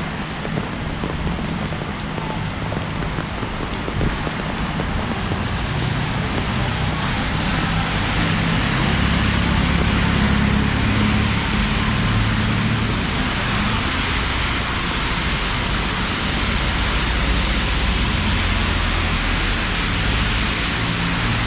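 Heavy rain falling steadily and hissing on hard surfaces, a little louder from about a third of the way in, with an uneven low rumble underneath.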